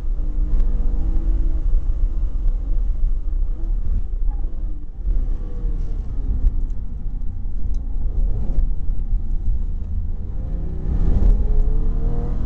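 A Porsche 911 GT3 RS flat-six engine heard from inside the cabin, faint under a heavy low rumble of road and wind noise, with its pitch rising and falling as the car is driven hard. The revs climb again near the end.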